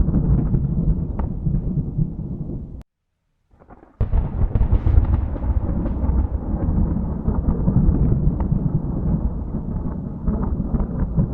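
Thunder rumbling and rolling, cut off abruptly a little under three seconds in. After about a second of silence a new peal starts abruptly and rolls on.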